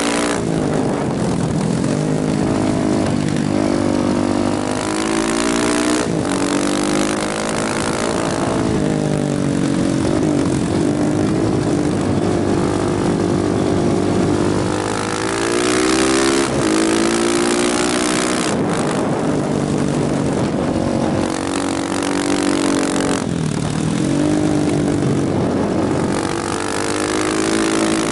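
KTM motorcycle engine pulling hard through the gears, its pitch climbing and then dropping sharply at each shift, several times over, with steady wind rush.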